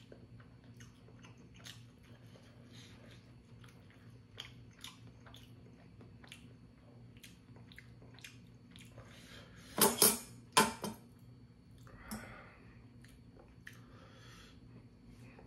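Close-up chewing: small wet mouth clicks at an uneven pace. About ten seconds in, a quick run of three or four loud, sharp clacks.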